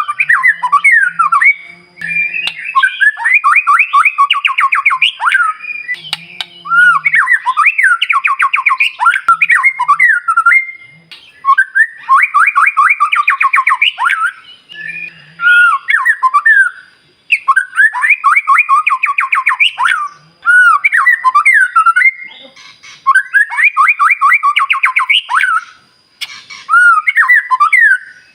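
White-rumped shama (murai batu) singing loudly in repeated phrases, each a fast rattling run of rising notes, with short pauses between them. It is a lure song of the kind played to provoke other shamas into answering.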